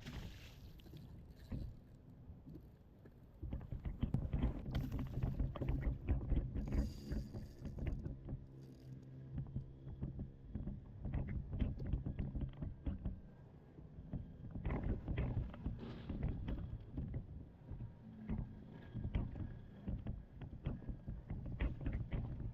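Kayak on the water: wind buffeting the microphone and water slapping the hull, with frequent bumps and knocks. A steady low hum runs through the middle few seconds.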